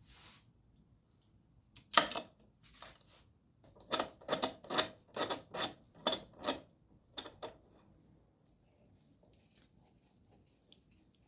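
A series of sharp clicks and knocks: one loud click about two seconds in, then a quick run of about a dozen more, two to three a second, fading to faint ticks after about eight seconds.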